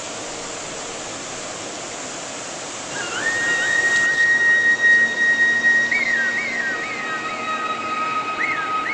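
A steady rushing hiss, joined about three seconds in by high whistling tones: long held notes at a few pitches and a quick, repeated rise-and-fall figure.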